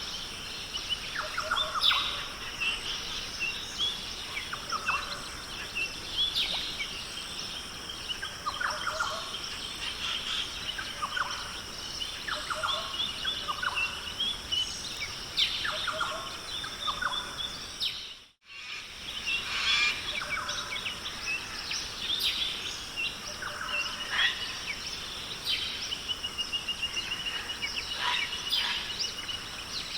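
Forest bird chorus: many birds giving short calls, one of them a rapid trill near the end, over a steady high insect drone. The sound drops out for a moment a little past halfway, then resumes.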